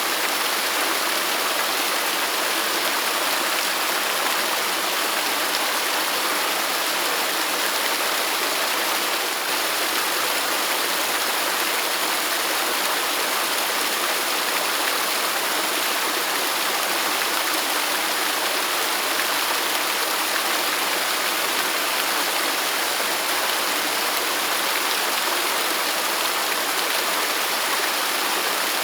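Waterfall: falling water rushing steadily, a continuous hiss-like roar with no breaks.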